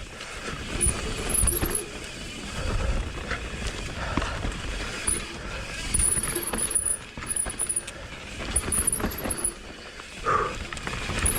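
Mountain bike ridden down a dirt trail: tyres rolling over the ground, with the bike knocking and rattling over bumps and wind rumbling on the microphone.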